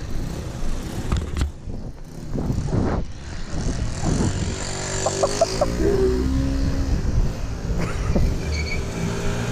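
Small motorbike engine running and revving up and down several times.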